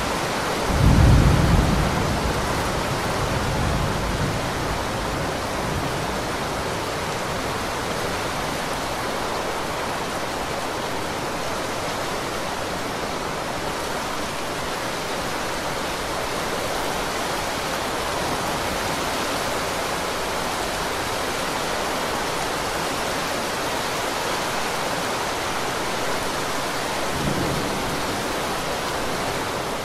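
Heavy rain pouring steadily, an even hiss of water. A short low rumble rises over it about a second in, and a fainter one comes near the end.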